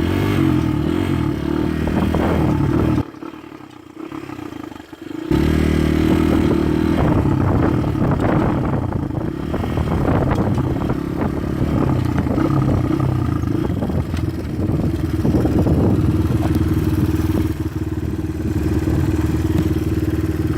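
A 200 dirt bike's engine running under way on the road. It drops away sharply about three seconds in, then comes back up about two seconds later and carries on steadily.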